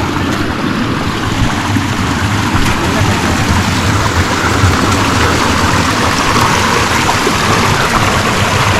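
Waterfall and stream water rushing over rocks, a loud steady rush.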